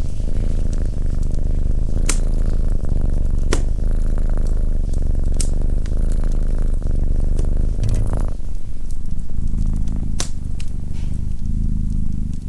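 Domestic cat purring steadily and close up, with about five sharp pops from a wood fire crackling.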